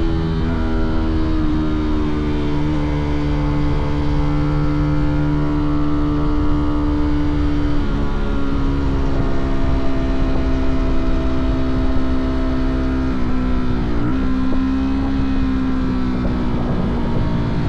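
Fantic Caballero 125's single-cylinder four-stroke engine and exhaust running under way on a ride, a steady engine note that drops in pitch at the start, again about eight seconds in and again about fourteen seconds in.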